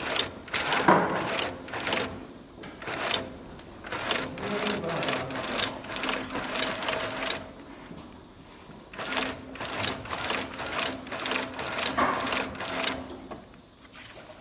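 Industrial sewing machine stitching in runs of rapid, even strokes over a steady motor hum, stopping and starting several times with a longer pause about midway.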